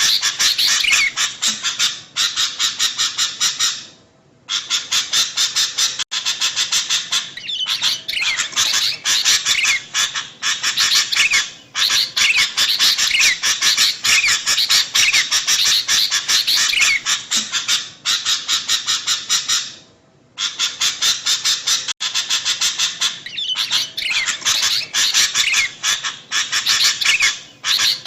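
Sooty-headed bulbuls (kutilang) chattering: a dense, rapid stream of harsh, squawky calls, many notes a second, pausing briefly about four seconds in and again about twenty seconds in.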